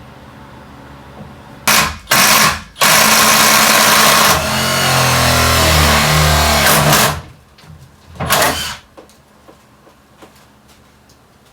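Power drill running in a few short bursts and then one long run of about four seconds, its motor pitch shifting as it works.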